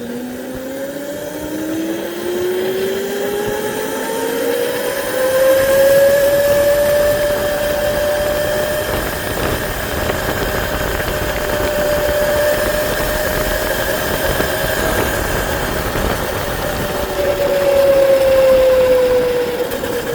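Motorbike engine pulling away, its pitch rising steadily for about five seconds, then running at a steady speed while riding, with a slight drop in pitch near the end.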